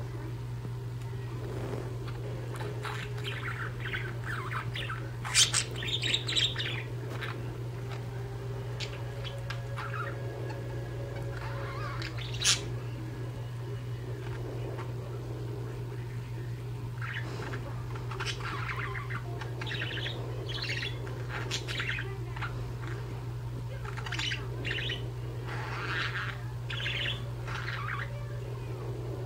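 Two budgerigars chirping and chattering in short scattered bursts, with a few sharp, louder calls around six seconds in and again near twelve seconds, over a steady low hum.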